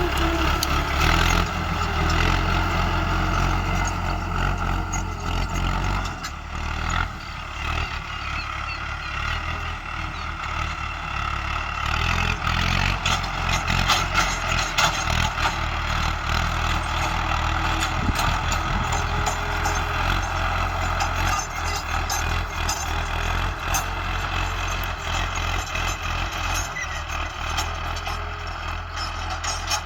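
Mahindra Arjun 555 DI tractor's diesel engine running steadily under load while pulling a cultivator, with a deep continuous rumble and a slight dip in level about six seconds in.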